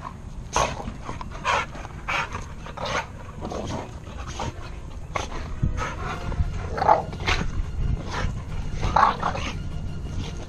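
Dogs play-wrestling, giving a run of about a dozen short growls and barks at irregular intervals, over a steady low rumble.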